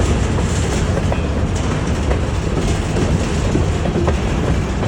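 Trona Railway freight train rolling by: a steady low rumble of wheels on rail, with scattered clicks of the wheels over the track.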